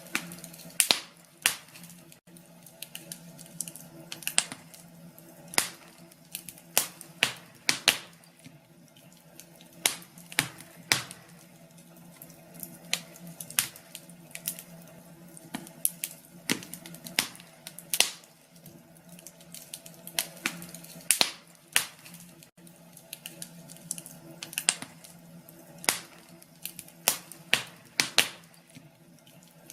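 Wood fire in a fireplace crackling, with irregular sharp pops and snaps, sometimes several in quick succession, over a faint steady low background.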